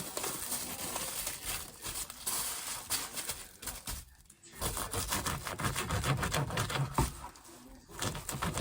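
Kitchen handling noises: a run of quick clicks, taps and crinkling, busiest in the second half.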